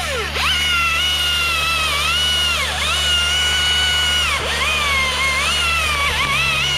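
Husqvarna T540iXP battery top-handle chainsaw cutting wood: a steady high motor whine that sags in pitch several times as the chain bogs in the cut, then picks back up.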